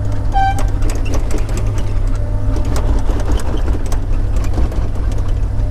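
Log loader's engine running steadily with a low drone, with scattered knocks and clunks of logs being handled, and a short high beep about half a second in.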